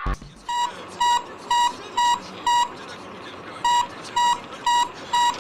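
Electronic beeping: short, high, steady beeps about two a second, in two runs of about five with a pause of about a second between them.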